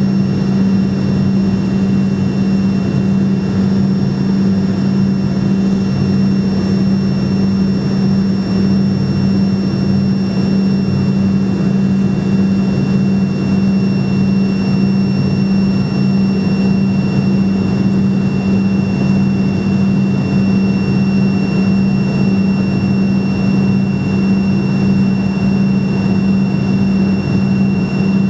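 Fokker F28's twin Rolls-Royce Spey turbofan engines running steadily, heard from inside the cabin: a loud, even low drone with a thin high whine over it.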